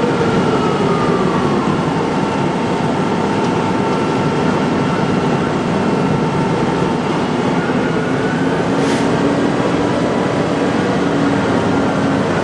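An emergency-vehicle siren winding down, falling in pitch over the first couple of seconds, over the steady loud running of heavy emergency-vehicle engines at the scene. A brief sharp click sounds about nine seconds in.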